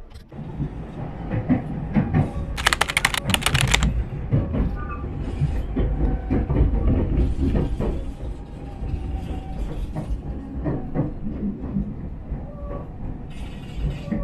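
Interior of a Nankai Railway train running: a steady low rumble with the clatter of wheels over the track, and a brief burst of rapid clicking about three seconds in.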